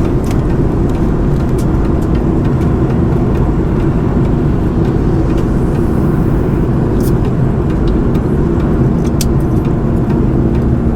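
Cabin noise of a Boeing 717-200 in flight, heard from a seat beside its rear-mounted Rolls-Royce BR715 turbofan: a loud, steady rumble of engine and airflow with a low hum, broken by a few faint clicks.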